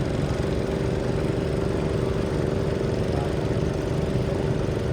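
Garden tractor engine running steadily at high revs under load, pulling a weight-transfer sled.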